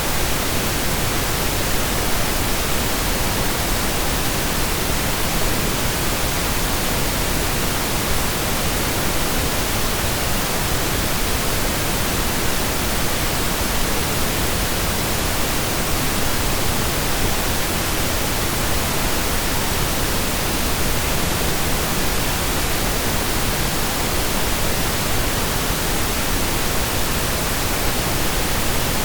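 Steady synthesized pink noise in stereo: an even, unbroken hiss with equal energy per octave, like steady rain or a waterfall heard from indoors.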